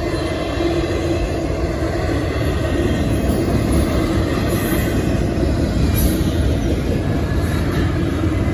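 Double-stack intermodal freight cars rolling steadily past: a continuous rumble of steel wheels on rail.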